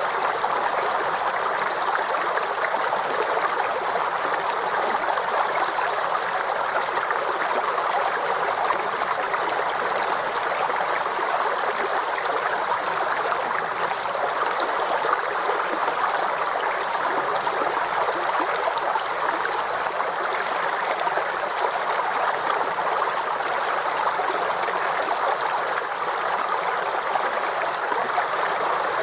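Small forest stream flowing and babbling over stones, a steady rush of water with no change in level.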